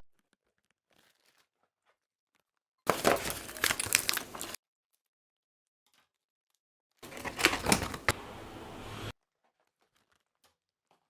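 Foil snack packet crinkling and rustling as it is handled and torn, in two short bursts with dead silence between and after them.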